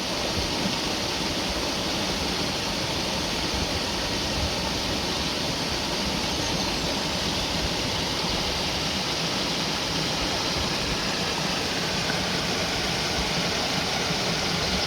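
Brook water rushing steadily as it drains through and past a fallen-tree blockage.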